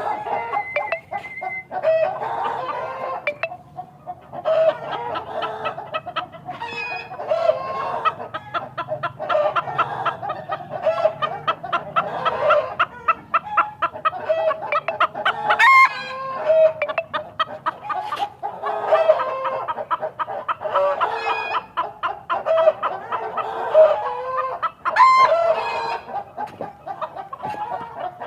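A flock of chickens clucking and calling continuously, many short pitched calls overlapping. A few louder, longer calls stand out, around 16 seconds and 25 seconds in.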